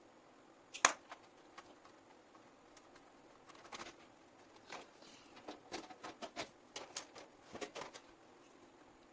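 Small sharp clicks and light knocks of hard parts being handled: one loud click about a second in, then an irregular run of clicks from about three and a half to eight seconds.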